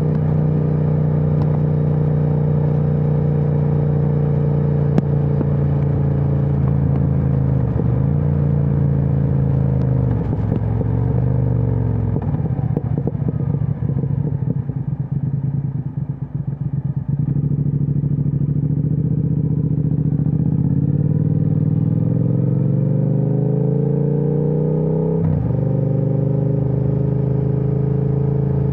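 Triumph Speed Twin 1200's parallel-twin engine through a Vance & Hines aftermarket exhaust, riding under load and changing gear. In the middle it goes off the throttle with popping and crackling from the exhaust. It then accelerates, the note rising steadily until a sharp drop at an upshift near the end.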